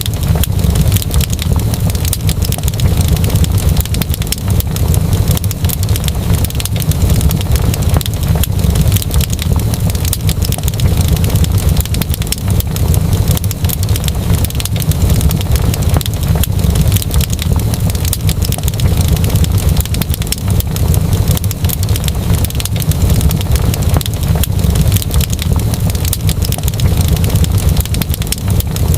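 Wood fire burning in a fireplace, crackling densely and without a break over a steady low rumble.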